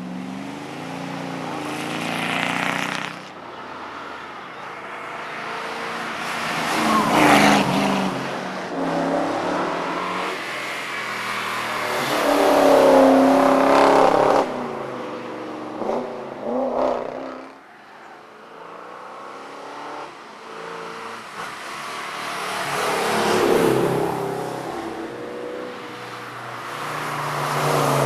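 Racing car engine at full throttle on a hillclimb course, its pitch rising and falling as it revs through gear changes and passes. It is loudest about 7 and 13 seconds in, fades around 18 seconds, then builds again toward the end.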